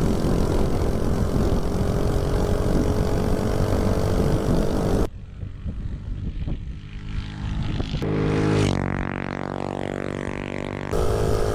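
The mini bike's 79cc LCT snowblower engine running hard under way, with wind rushing over the microphone. About halfway through the sound drops abruptly to a quieter engine, which then revs with its pitch dipping and rising. The loud riding sound returns abruptly near the end.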